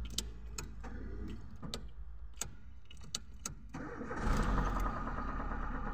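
Car engine being started for the first time after an oil and filter change: a run of sharp clicks, then a louder surge about four seconds in as it settles into a steady idle.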